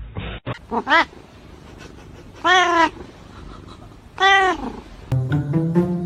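A cat meowing: a quick pair of short rising calls about a second in, then two drawn-out meows about two seconds apart. Music with steady notes comes in near the end.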